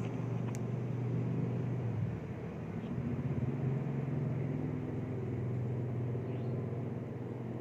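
Low, steady rumble of vehicle engines from road traffic, with a few faint short chirps of a bird calling over it.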